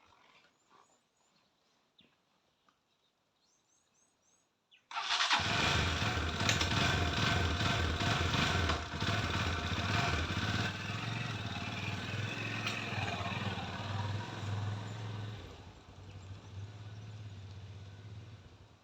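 Motorcycle engine starting suddenly about five seconds in and running with a steady low note, dropping in level near the end. A few faint chirps before it.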